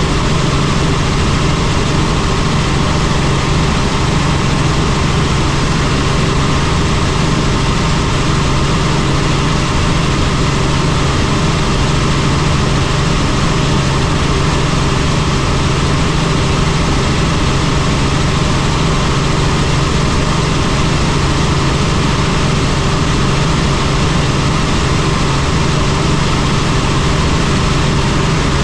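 Helicopter in flight: its engine and rotor making a steady, loud drone with a constant low hum.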